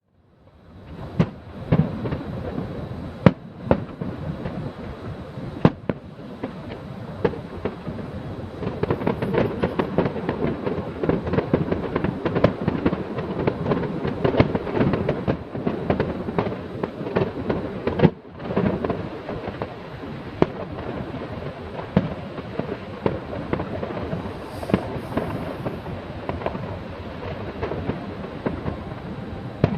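Fireworks display: a dense run of bangs and crackling shells bursting, with a few sharper, louder booms standing out over the continuous crackle.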